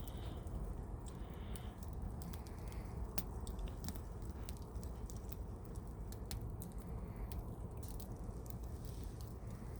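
Wood campfire crackling, with irregular sharp snaps and pops of burning firewood over a steady low rumble.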